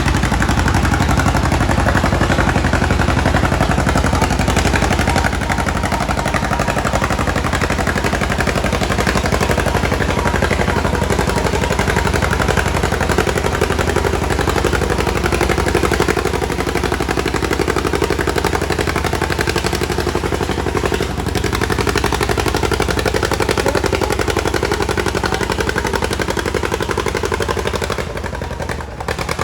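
Antique farm tractor engine running hard under load, pulling the weight-transfer sled, its exhaust a rapid stream of loud sharp pops. The engine drops off briefly near the end.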